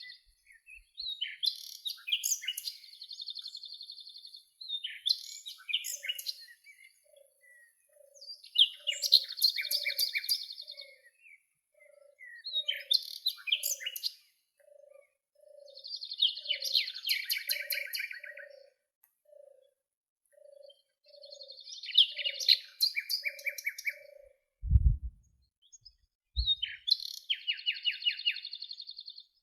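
Songbirds singing, with high trilled phrases repeating every couple of seconds. Through the middle runs a steady series of soft, low, evenly spaced notes, and two low thumps sound near the end.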